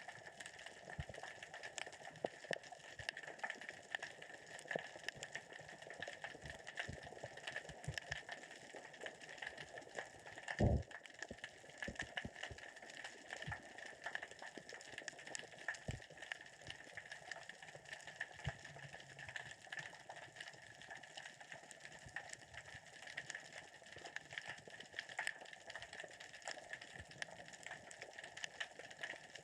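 Underwater crackling: a dense, steady patter of small clicks and ticks, with one louder knock about ten seconds in. The diver attributes this sound to small rocks rolling across the sea floor as the current and tide move them.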